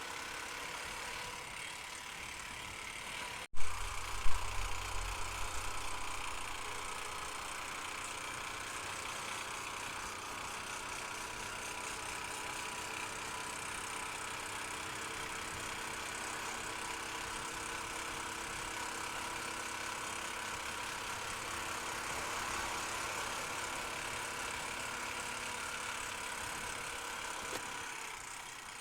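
Honda Unicorn motorcycle engine running steadily while riding, with road and wind noise. About three and a half seconds in the sound briefly cuts out; a couple of seconds of heavy low rumble with a few loud thumps follow before it settles back to a steady ride.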